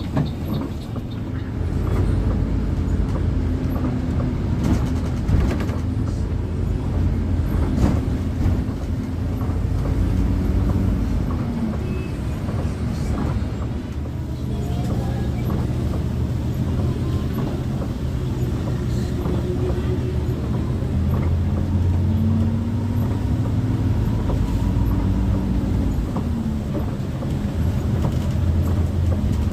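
Intercity bus driving, heard from inside the cabin: a steady low engine and road rumble, with the engine note rising and falling a few times as the bus changes speed, and a few short knocks and rattles early on.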